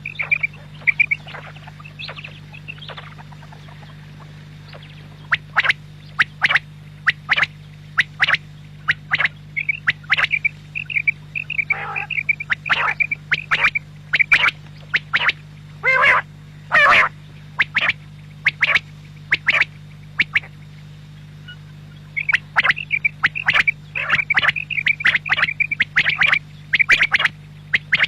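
Quail calling: short, sharp calls repeated in quick runs, with a pause of a couple of seconds a few seconds in and dense calling near the end, over a steady low hum.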